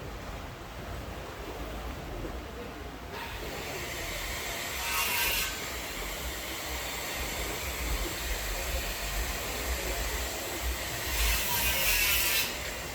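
Steady rain hiss over a low rumble, growing fuller about three seconds in, with two louder hissing surges of about a second each: one about five seconds in and one near the end.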